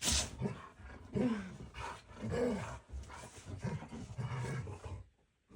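Two dogs growling and snarling at each other in a squabble, in a run of irregular, rough bursts that stop shortly before the end.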